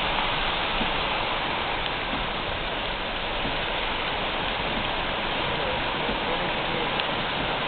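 Steady rush of a brook swollen to flood, water pouring down in spate, with rain falling.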